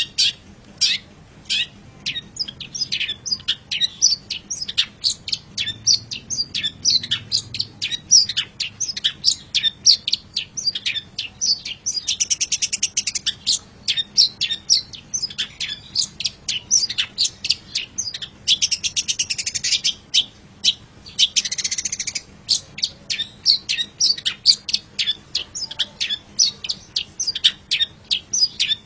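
Long-tailed shrike (cendet) singing a rapid, continuous song of short, sharp chirps. Three harsh, buzzy rasps break in through the middle of it.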